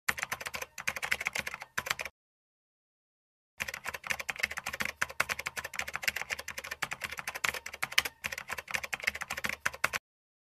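Rapid computer keyboard typing, many fast keystrokes in a row, laid in as a sound effect for on-screen text being typed out. It stops for about a second and a half near two seconds in, then resumes and runs until just before the end.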